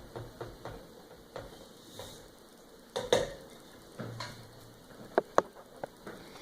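Scattered clinks and knocks of kitchen utensils against a blender jar as ingredients are spooned in. The loudest knocks come about three seconds in and twice just after five seconds.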